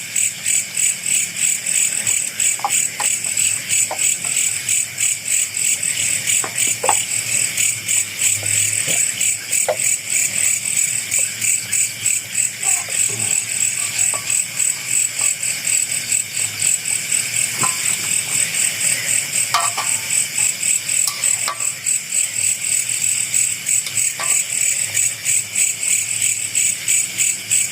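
Loud chorus of night insects, cricket-like, chirring in fast even pulses at two high pitches without a break. A few faint short clicks and knocks sound now and then underneath.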